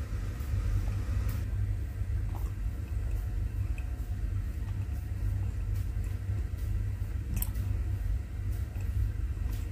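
A steady low rumble, with faint scattered clicks and soft mouth sounds of someone chewing a soft, gelatinous sweet.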